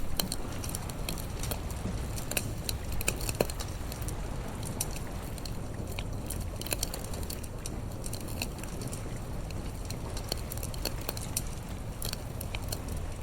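Wood bonfire crackling, with irregular sharp snaps and pops over a steady low rumble.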